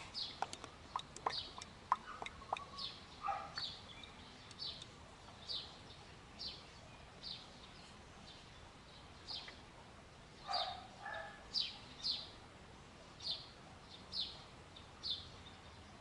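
A bird calling over and over, a short high chirp about once a second. There is a cluster of sharp ticks in the first few seconds and two lower, rougher calls, one about three seconds in and one near the middle.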